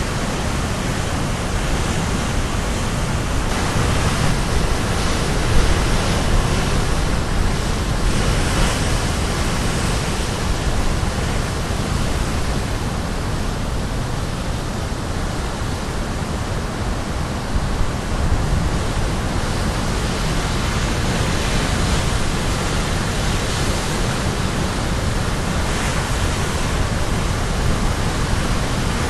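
Caribbean Sea waves crashing on a rocky shore in a continuous loud wash of surf, swelling and easing as the breakers come in.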